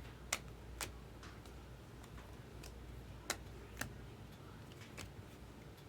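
Chrome trading cards being handled and flipped through by hand, giving sharp separate clicks in pairs about half a second apart, with fainter ticks between them.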